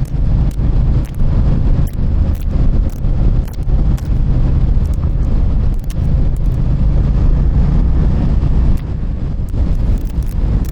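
Motorcycle engine running while riding, with wind rushing over the microphone. The low engine note holds steady for a few seconds in the middle, then wavers again near the end.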